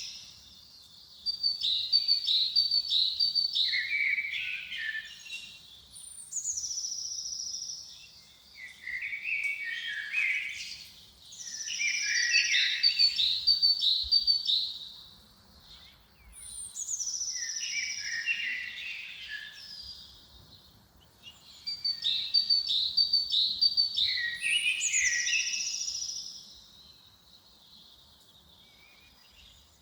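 A songbird singing the same short phrase over and over, about every five seconds. Each song opens with a high descending whistle, runs into a quick series of notes and ends on lower notes.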